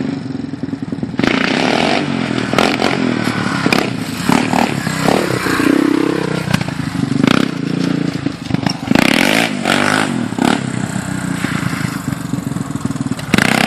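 Yamaha Raptor 350 ATV's single-cylinder four-stroke engine revving up and down as the quad is ridden, its pitch rising and falling several times.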